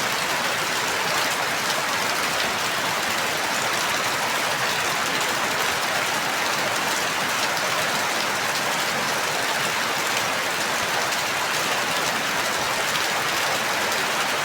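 Steady rainfall, an even, unbroken hiss of rain with no distinct drops or changes.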